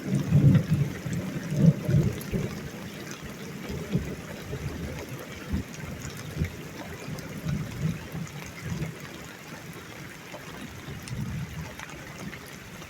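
Thunder rumbling after a close lightning flash, loudest in the first couple of seconds, then dying away into an uneven low rumble with a few swells. Rainwater trickles and drips underneath.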